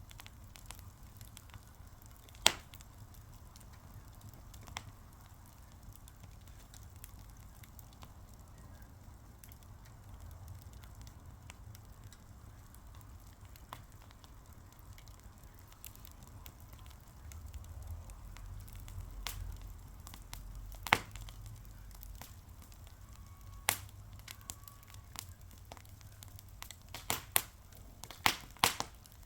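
Wood fire crackling, with a faint low rumble under scattered sharp pops. One loud pop comes about two seconds in and another about two-thirds of the way through, and a quick run of pops comes near the end.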